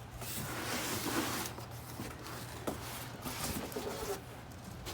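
Rustling and scraping of cardboard and packing as a shipping box is opened and handled, in irregular bursts.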